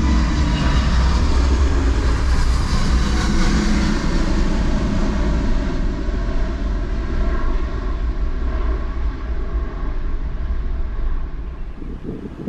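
Airbus A350-900 jet engines (Rolls-Royce Trent XWB) at takeoff thrust, a loud steady rumble with a high hiss. The hiss thins out midway and the sound begins to fade near the end as the aircraft climbs away.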